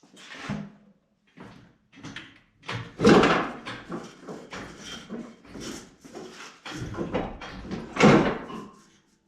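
Irregular clunks, bangs and scraping of metal parts as an engine is worked loose and lifted out of a car on a hoist, with two louder bangs about three and eight seconds in.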